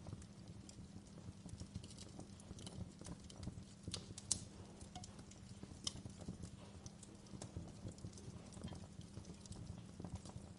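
Wood fire burning in a fireplace, crackling irregularly over a low steady rumble of flame, with a few sharper pops, the loudest about four seconds in.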